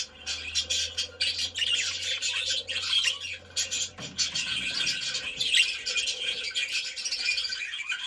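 Budgerigars warbling and chirping continuously, a busy chatter of rapid chirps, squawky notes and warbles.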